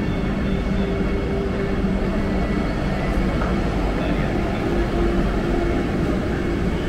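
Vande Bharat Express electric train: a steady rumble with a low, even hum.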